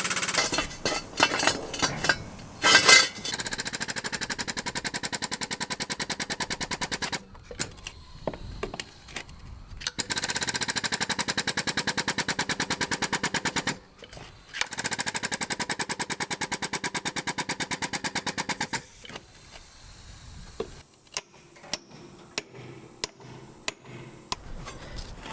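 Impact wrench hammering on truck wheel nuts in three bursts of about four seconds each, with shorter blips and a few knocks before and after.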